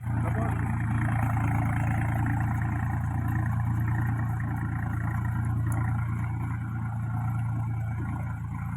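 Tractor engine running steadily while the tractor tills a field, a deep, even engine note with no change in speed.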